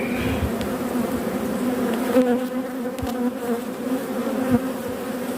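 Honeybees buzzing over an open hive: a steady, even hum with a couple of soft knocks. The keeper judges the colony content, not unhappy.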